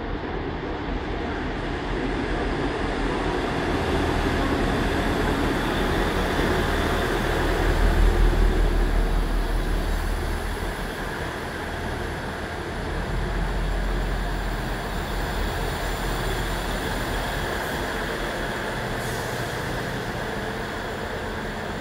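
Class 159 diesel multiple unit arriving along a platform: the rumble of its diesel engines and wheels on the rails swells as the carriages pass close, loudest about eight seconds in, then eases to a steadier run as it slows.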